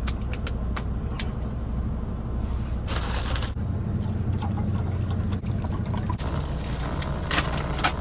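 Steady low hum of a semi truck's engine idling, with scattered clicks of handling and a short rustle about three seconds in.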